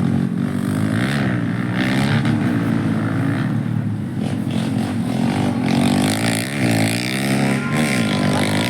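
Motocross bike engines revving hard, their pitch dipping and climbing again several times as the throttle is worked.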